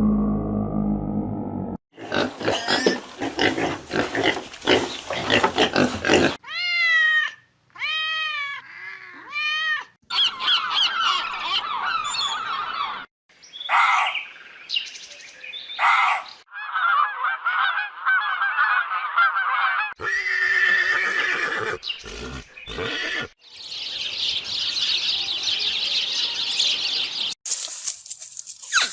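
A rapid series of different animal calls, changing abruptly every few seconds: a low drawn-out call, rasping clicks, a run of rising-and-falling whistled calls, chattering, and a high hiss near the end.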